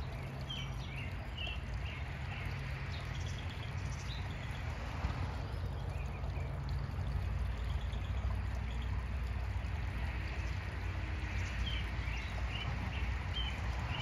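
Small birds chirping in short runs of high notes, once early on and again near the end, over a steady low outdoor rumble.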